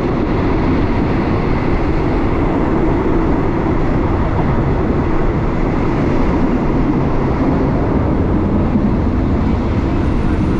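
Steady rumble and rush of a moving passenger train heard from inside a carriage with its windows open.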